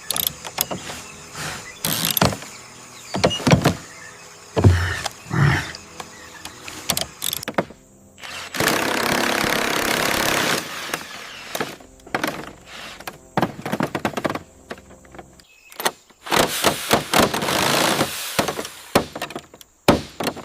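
Workshop sounds of hands-on repair work: scattered knocks and clunks, with a loud steady hiss lasting about two seconds near the middle and another stretch of hissing noise near the end.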